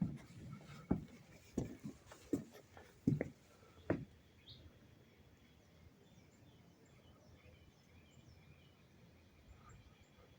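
Faint outdoor bird chirping, with a handful of dull thumps at about one a second over the first four seconds.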